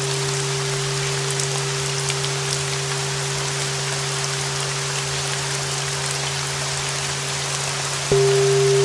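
Steady rain noise with a sustained 396 Hz bell tone and a lower drone under it. About eight seconds in, a flat bell is struck anew and its tone rings out louder.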